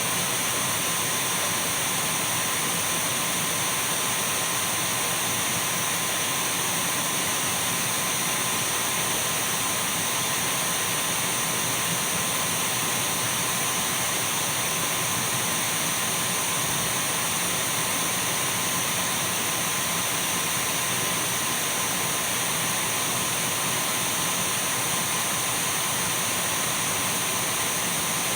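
Dyson V12 cordless stick vacuum running continuously: an even rushing of air with a steady high whine from its motor, unchanging in pitch and level.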